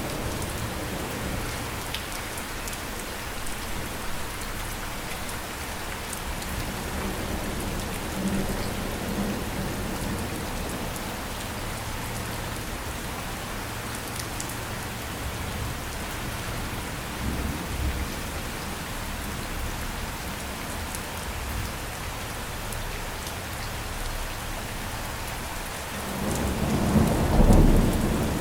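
Steady rain falling, with low rolls of thunder and a louder thunder roll building near the end.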